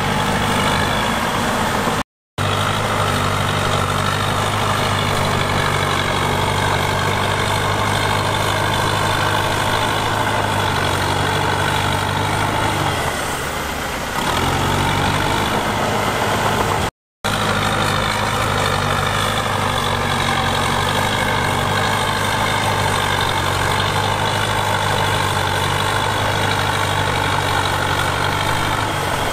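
Heavy-equipment diesel engine running steadily with a low, even drone, easing off briefly about two-thirds of the way through. The sound drops out completely for a split second twice, once about two seconds in and once just past the middle.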